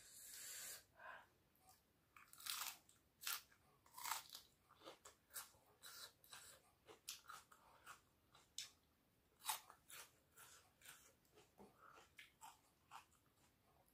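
Close-up chewing and biting of crisp raw napa cabbage with rice, heard as a quick, irregular string of soft crunches.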